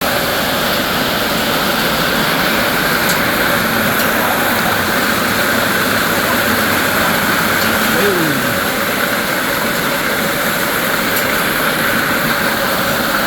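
Heavy hail coming down hard: a loud, dense, steady roar of countless stones striking, with a brief falling tone about eight seconds in.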